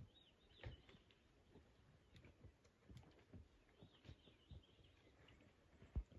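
Faint bird song: a few short arched chirps at the start and again about four seconds in, over near silence broken by scattered soft low thumps, with one sharper thump near the end.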